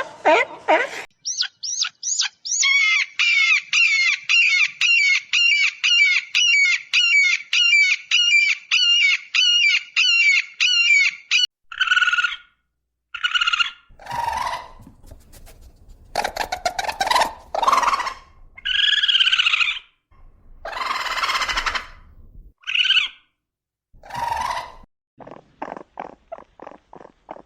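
A sequence of different animal calls. First comes a long run of rapid, evenly repeated high chirps, about two to three a second, like a bird calling. Then come several separate, varied calls, and near the end a fast series of short clicks.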